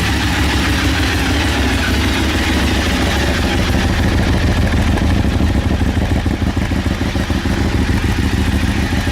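Ducati 848 Evo's L-twin engine idling steadily in neutral, pretty loud for a stock motorcycle.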